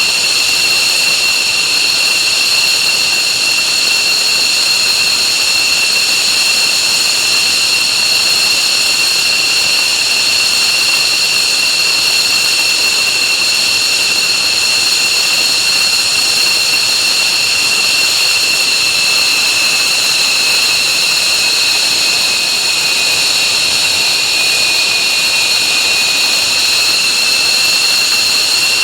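F-15J's F100 turbofan jet engines running steadily on the ground after start, a loud high whine over a rushing noise; the lower whine tone sags slightly about three quarters of the way through.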